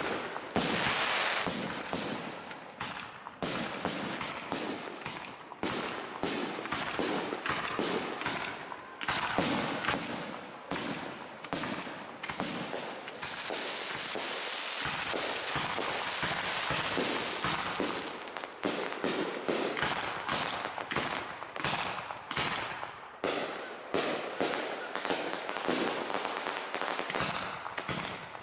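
Professional fireworks display with large aerial shells: a dense, continuous barrage of bangs, several a second, with a stretch of steady crackling in the middle.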